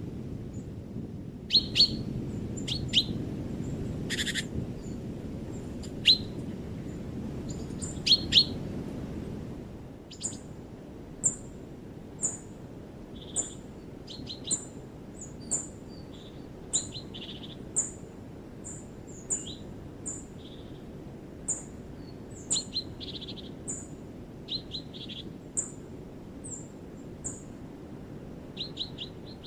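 Small songbirds calling in short, sharp chirps, some in quick pairs. A low rushing noise under the first few seconds drops away about ten seconds in, and the later calls are higher, thinner chirps repeated about once a second.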